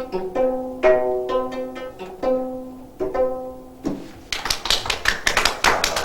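Gayageum being plucked, the last notes of a hwimori piece: single notes ring out and fade one after another. About four seconds in, the playing ends and clapping starts.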